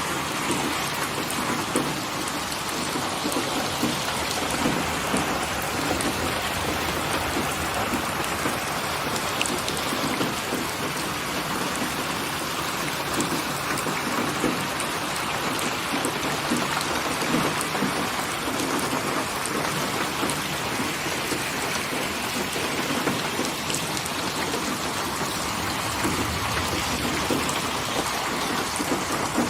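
Steady rain falling, a dense patter of drops on hard surfaces. Near the end, a low rumble of distant thunder starts to come in.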